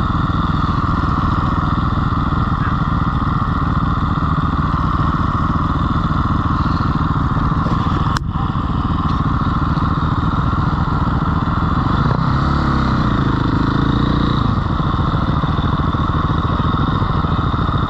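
Dirt bike engine running steadily. For a couple of seconds, from about twelve seconds in, another motor's pitch rises and falls over it, with a single sharp click about eight seconds in.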